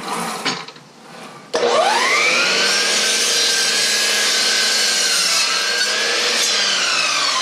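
A few short handling knocks, then about a second and a half in an electric saw is switched on: its motor whine rises quickly as it spins up and then runs at a steady pitch while the blade cuts through a wooden fence picket.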